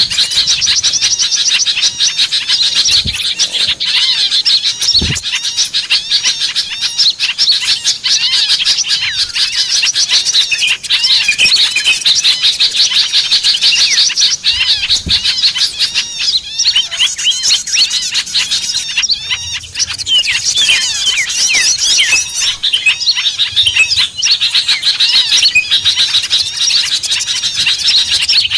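A dense, noisy chorus of many small songbirds chirping, trilling and calling over one another without a break. This is a bird-lure track ('suara pikat') meant to draw wild small birds down.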